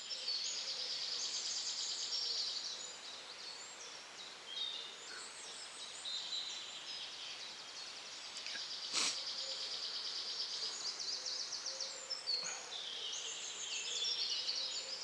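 Several songbirds singing at once in an early-morning chorus of busy, overlapping chirps and trills, with one sharp click about nine seconds in.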